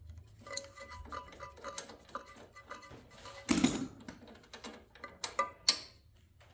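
Ratchet and socket backing a spark plug out of a small engine: quick metal clicking and clinking, with a louder metal clatter about halfway through.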